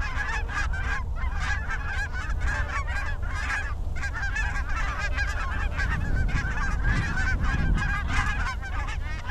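A large flock of geese calling, many honks and yelps overlapping into a continuous chorus.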